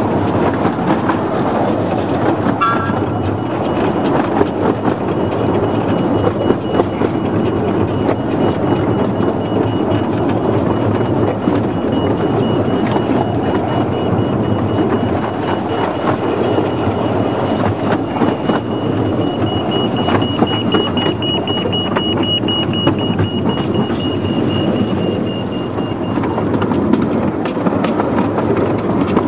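A 15-inch gauge miniature railway train running, with a steady rumble and clatter of wheels on the track. A steady high-pitched squeal joins in about halfway through and fades out near the end.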